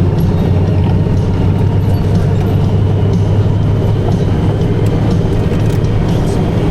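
Motorcycle running steadily at cruising speed: an even, low engine drone with road and wind noise.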